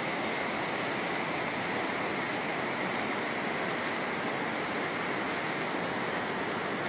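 Floodwater rushing steadily: a continuous, unchanging wash of water noise.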